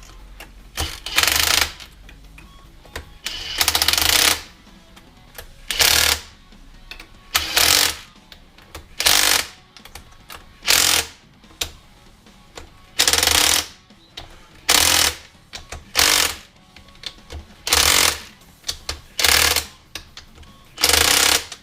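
Ratchet wrench clicking in short runs, one every second and a half to two seconds, as the cylinder head bolts of a two-stroke kart engine are snugged down.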